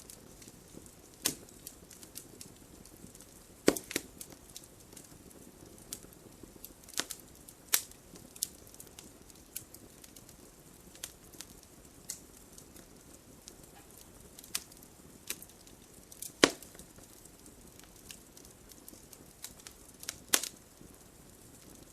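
Wood fire burning in a fireplace: irregular sharp crackles and pops from the burning logs over a faint steady hiss, with the loudest pops about 4, 8, 16 and 20 seconds in.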